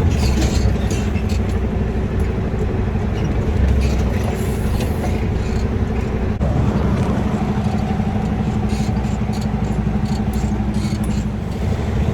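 Semi-truck's diesel engine running steadily at low speed while the truck reverses, a continuous low hum with a faint steady tone. There is a brief click about halfway through.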